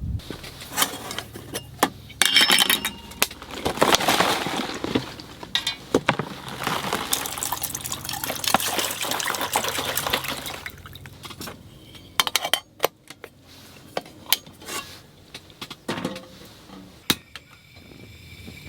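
Water being poured and splashing over strawberries in a bowl to wash them, for about eight seconds, followed by scattered clinks and knocks of dishware.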